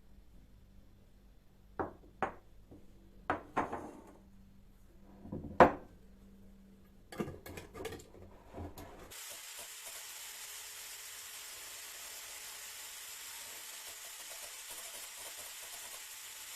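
Several sharp knocks and clatters of dishes or utensils being handled, the loudest about halfway through. Then, after an abrupt cut, a steady sizzling hiss of food frying in a pan.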